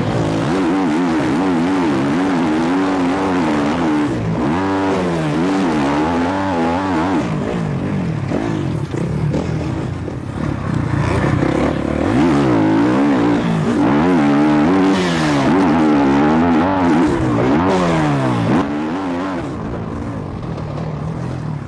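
Motocross dirt bike engines revving on a track, pitch rising and falling over and over as the riders open and close the throttle, with more than one bike audible at once.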